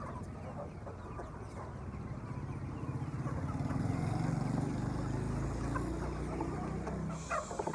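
A motor engine running, growing louder to a peak about four to five seconds in and then fading, with chickens clucking faintly.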